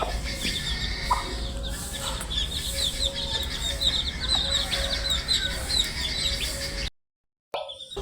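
A brood of baby chicks peeping continuously, many short high chirps overlapping, over a steady low hum. The sound cuts out completely for about half a second near the end.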